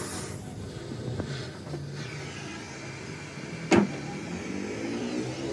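A steady low mechanical hum, with one sharp knock a little under four seconds in.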